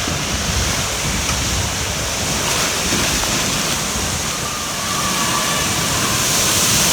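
Steady rush of flowing water while riding down a kiddie water slide, getting a little louder about five seconds in.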